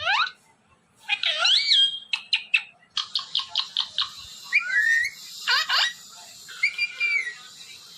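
Pet parrot calling: a string of rising and falling whistled notes mixed with short sharp clicks and chirps, with a rapid run of clicks about three seconds in.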